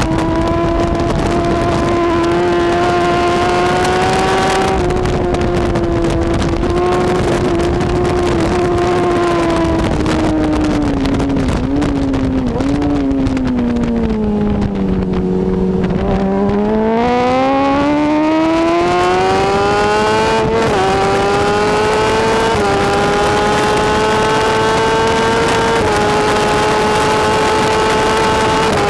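BMW S1000RR superbike's inline-four engine running hard at high revs. About a third of the way in the pitch sinks steadily as the bike slows. It then climbs again under acceleration, with a few brief steps in pitch, and holds high near the end.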